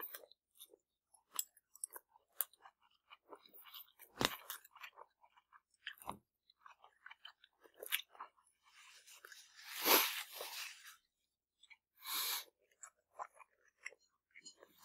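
Close-up eating sounds: chewing on chicken skewer and rice noodles, with scattered short mouth clicks and smacks. A louder noisy burst lasting about a second comes about ten seconds in, and a shorter one about two seconds later.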